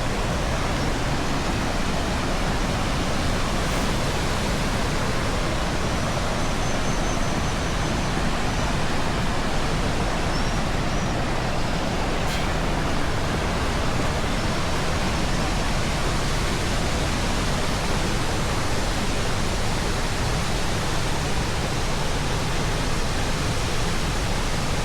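Lundbreck Falls on the Crowsnest River, a steady rush of falling water.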